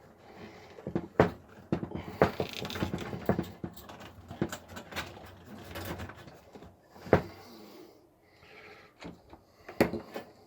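Hands working inside a desktop PC case: irregular clicks, knocks and rustling from handling the power supply's cables and connectors. Two sharper knocks stand out, about a second in and about seven seconds in.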